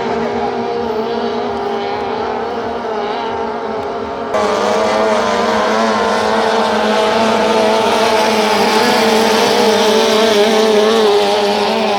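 Outboard motors of racing tunnel boats running at high, steady revs, a held engine note with slight wavering in pitch. About four seconds in, the sound abruptly jumps louder and brighter.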